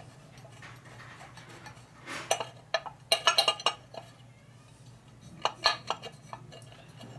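Small steel engine parts clinking and ringing against one another as they are handled and test-fitted, in quick clusters of clicks about two, three and five and a half seconds in, with a steady low hum underneath.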